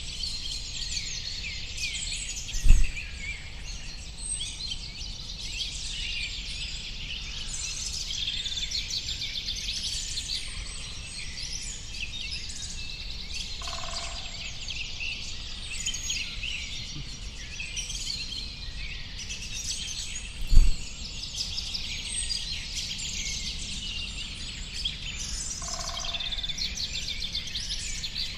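Dense chorus of many small birds chirping and twittering over a light background hiss. A brief low thump sounds twice, the loudest moments; a lower, simpler call sounds twice, about halfway and near the end.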